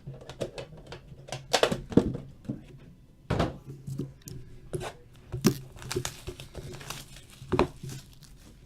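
Trading card packaging being opened and handled: irregular crinkling and tearing with sharp knocks and clicks, a handful of them louder.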